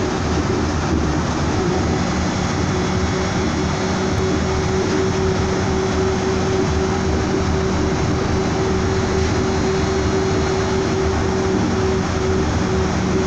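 Cabin noise of a Yurikamome rubber-tyred automated train running at steady speed: an even rumble with a constant hum, and no rail clatter.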